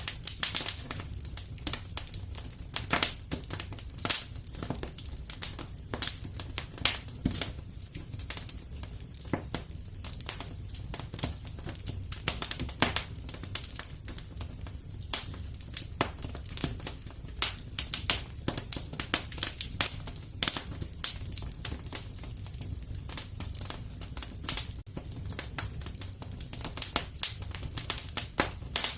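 Fireplace fire crackling: irregular sharp pops and snaps, some much louder than others, over a low steady rumble of the flames.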